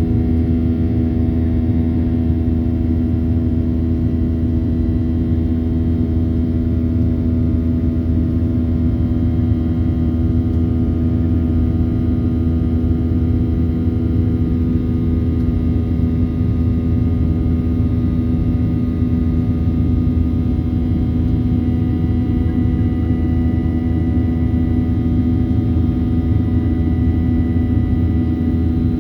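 Steady cabin drone of a Boeing 737-800, heard from a forward window seat: the CFM56-7B turbofans and airflow make a continuous loud rumble, with several steady humming tones above it.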